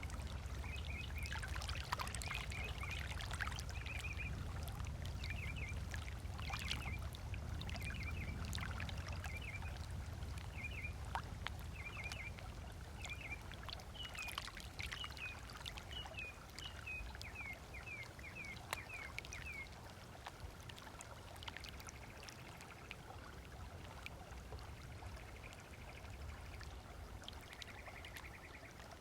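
Small waves lapping on the lagoon shore, with a bird repeating short chirping calls over and over until about two-thirds of the way through, above a low steady rumble.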